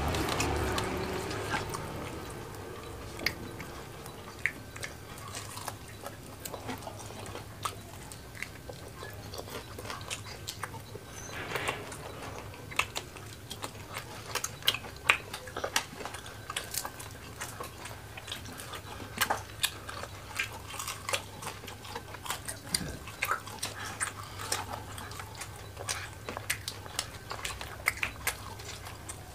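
Close-miked eating by hand: wet chewing and lip smacks over roasted chicken and rice, with many small irregular clicks, over a faint steady low hum.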